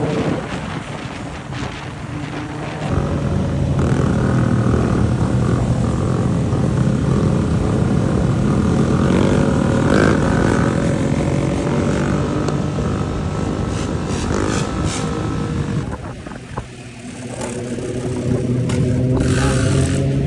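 Dirt bike or four-wheeler engine running and revving, with loud engine noise. It gets louder a few seconds in, falls away briefly near the end, then runs steadily again.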